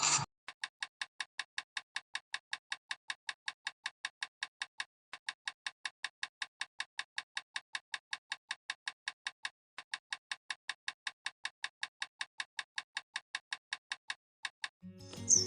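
A rapid, even run of light ticks, about four or five a second, broken by three short pauses. Music comes in at the very end.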